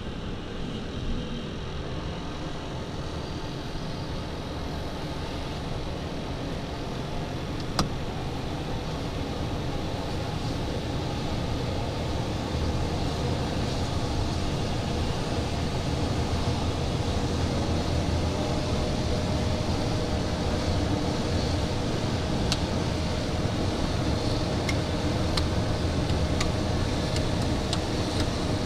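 Steady hum and rushing air of a Falcon 900 business jet's cockpit with its systems powered for pre-flight checks, slowly growing louder. A faint steady tone comes in about two-thirds of the way through. A few sharp clicks sound along the way.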